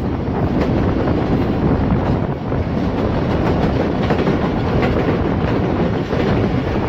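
Awam Express passenger coach running at speed: a steady loud rumble of wheels on the rails with faint scattered clicks, heard through the open coach window.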